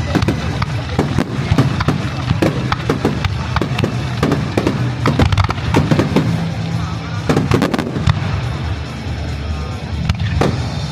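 Kagiya aerial fireworks going off in quick succession: a barrage of bangs and crackles over a low rumble, with a dense cluster of bursts about seven seconds in.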